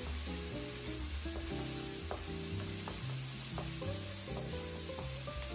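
Onions and garlic sizzling in a hot pan as they are stirred with a wooden spatula, with background music playing over it.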